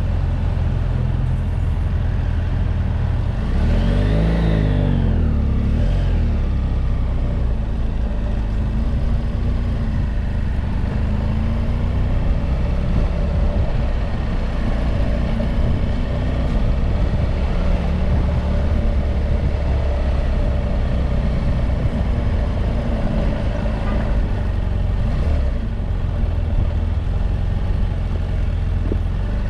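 BMW F800GS motorcycle's parallel-twin engine running steadily at road speed. About four seconds in, a passing vehicle swells and fades, its pitch rising and then falling.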